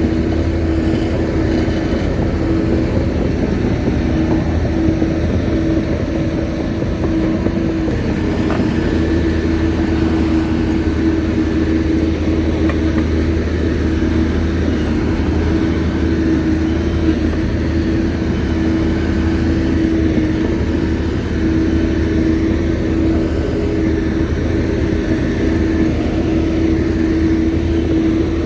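Shantui bulldozer's diesel engine running steadily, a constant low hum with a steady tone above it that holds one pitch throughout.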